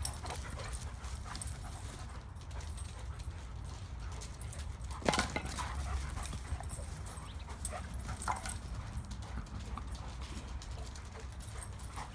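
An adult German Shepherd and a Dogo puppy play-fighting: scattered scuffles, paw taps and dog sounds, with one sharp, louder sound about five seconds in.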